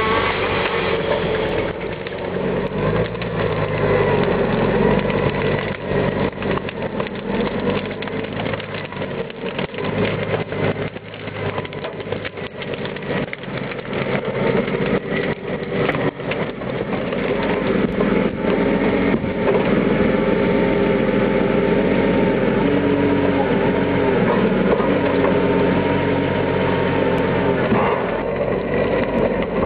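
Valtra T131 forestry tractor's diesel engine running and changing speed as it works the log-loading crane, with a whine over it and frequent short knocks and clatter.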